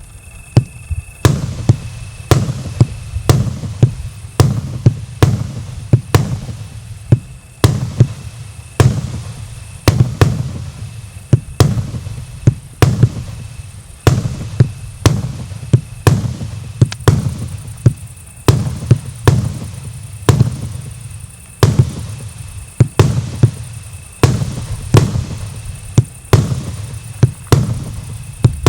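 A 220-shot multi-calibre (1 to 1.5 inch) firework cake firing: a steady run of sharp booms, about one to two a second, each trailing off in a short echo.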